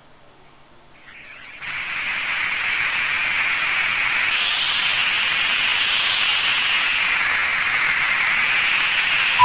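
Steady hissing wind sound effect that fades in about a second in and holds, swelling slightly in the middle, as the intro of the track.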